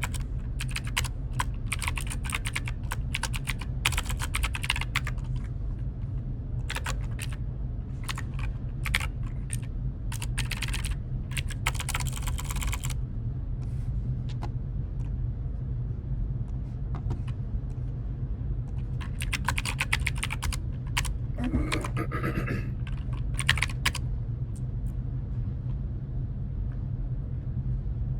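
Typing on a computer keyboard: bursts of rapid key clicks with pauses of a few seconds between them, over a steady low hum.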